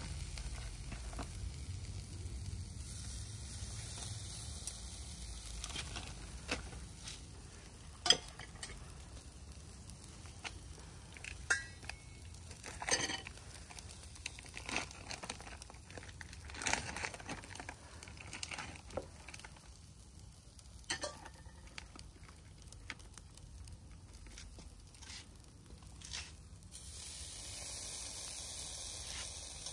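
Meat sizzling faintly on a wire grill grate over hot charcoal, with scattered sharp crackles and clicks throughout.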